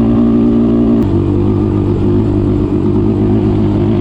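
Off-road vehicle engine running steadily and loudly, with a sudden shift in its note about a second in.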